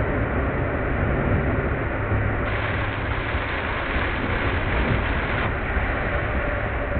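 Heavy rain falling on a moving car, mixed with the hiss of tyres on a wet road, a steady dense noise sped up to double speed.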